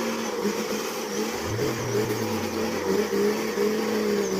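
Steady, slightly wavering vehicle engine hum, with a deeper engine note swelling in about a second and a half in.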